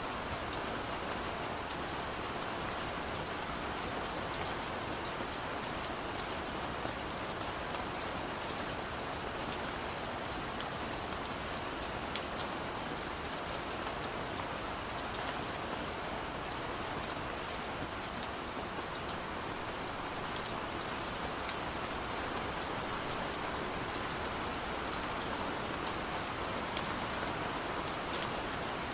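Steady gentle rain falling, an even hiss with scattered sharp drop ticks on top.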